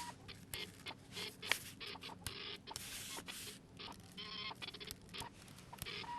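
Manual typewriter keys being struck in an irregular run of sharp clacks, with a longer rasping mechanical sound about halfway through.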